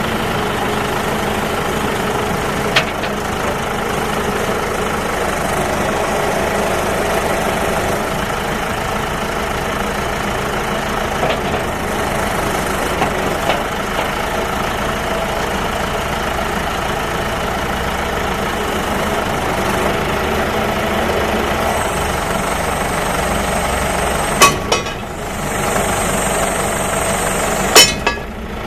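John Deere JD310-A backhoe's four-cylinder diesel engine idling steadily. There are a few sharp knocks, two of them close together near the end, and a faint high whine during the last few seconds.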